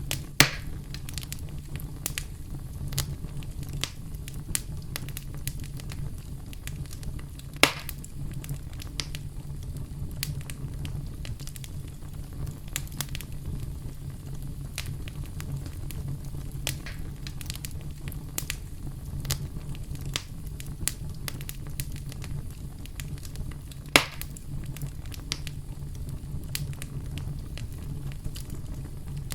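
Campfire crackling: many small snaps and ticks over a steady low rumble, with three louder pops, one right at the start, one about a quarter of the way through and one near the end.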